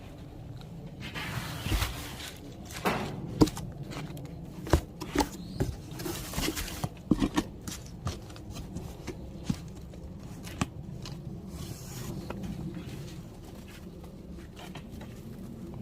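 Hand-packing sounds: rustling and scraping, with scattered sharp clicks and knocks. Two longer stretches of rustling come about a second in and around six seconds, and the knocks thin out in the second half.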